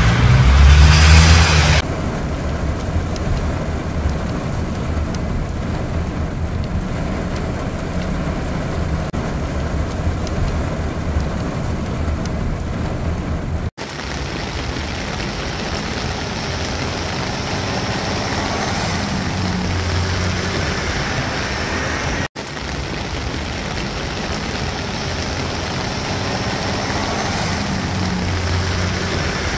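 Heavy rain pouring steadily, a dense even hiss. It is louder with a low rumble for the first two seconds, and it cuts out for an instant twice.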